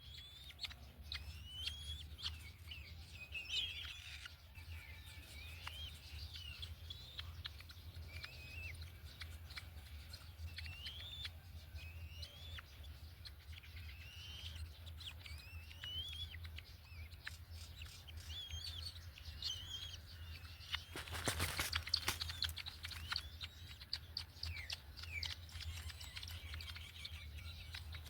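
Birds calling repeatedly in short, rising whistled chirps, with a brief rustling burst about three quarters of the way through and a low steady hum underneath.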